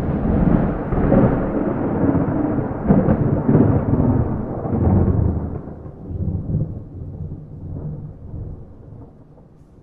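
A rolling peal of thunder with no rain: it starts suddenly, rumbles with several louder cracks through the first five seconds, then slowly dies away.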